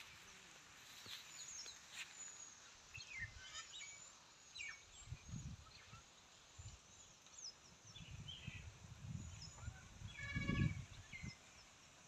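Small birds chirping and calling faintly here and there, with a quick run of repeated notes near the end. Under them are low, dull rumbles, loudest about ten seconds in.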